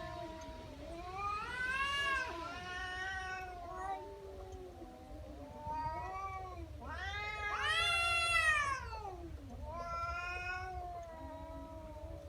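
Domestic cat yowling in angry threat: a run of long, drawn-out yowls that rise and fall in pitch. The loudest yowl comes about two-thirds of the way through.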